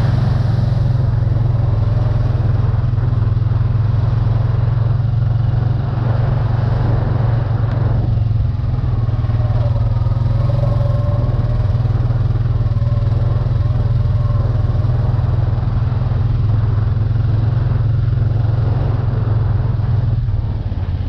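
Engine of a small off-road vehicle running steadily while riding, a constant low drone with no big revs.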